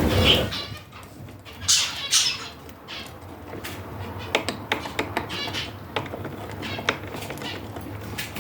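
Pet budgerigars chattering and chirping, with scattered sharp clicks and two harsh, noisy calls about two seconds in.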